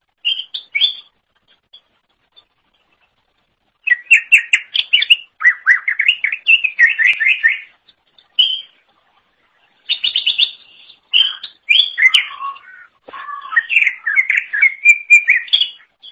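Green leafbird (cucak ijo) singing loud, rapid chattering trills and varied warbling phrases in bursts separated by short pauses.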